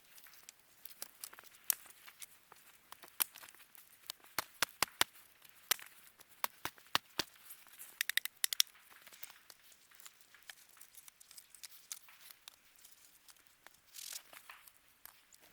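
Wood campfire crackling, with irregular sharp pops and a quick run of pops about eight seconds in. There is a brief noisy burst near the end.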